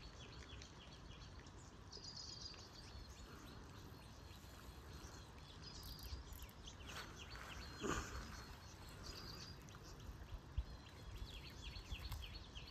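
Small birds chirping in short repeated calls over a faint steady outdoor background, with one brief louder noise about eight seconds in.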